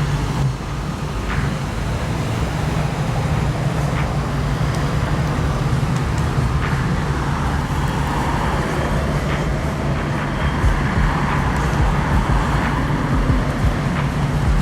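Cars cruising and idling in street traffic, with a steady low engine hum throughout and a few faint clicks.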